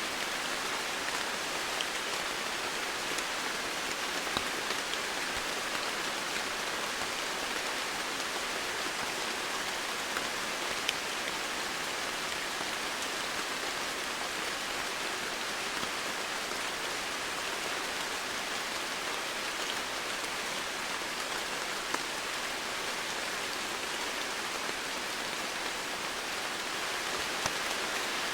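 Steady rain falling, a dense even hiss with the odd louder drop standing out now and then.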